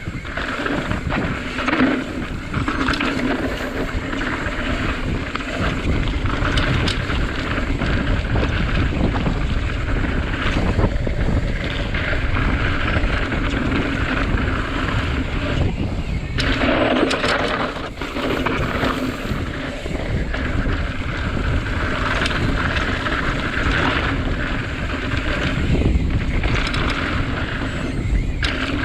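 Wind rushing over the microphone and mountain bike tyres rolling over the trail on a fast ride on a Santa Cruz Tallboy, with scattered knocks and rattles from the bike over rough ground.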